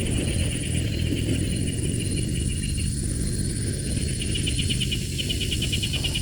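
An insect chorus: a high steady buzz and rows of pulsed trills, which thin out about halfway through and come back strongly near the end. Under it runs a steady low rumble.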